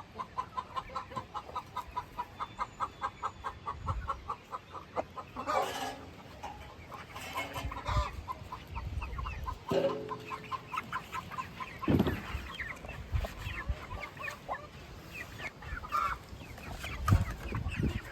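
Young chickens and turkeys calling: a fast run of short high peeps, about four or five a second, broken by a few louder single calls.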